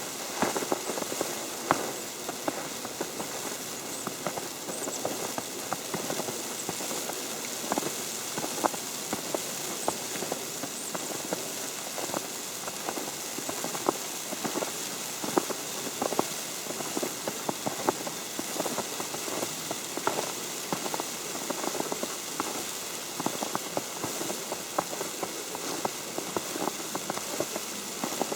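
Wet falling snow hitting an umbrella canopy: many irregular light taps over a steady hiss.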